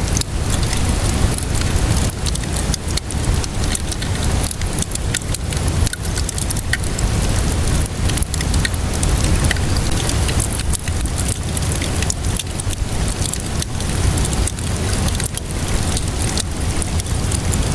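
Steady rainfall mixed with a wood fire crackling and popping, with many sharp little crackles scattered through it, over a steady low rumble.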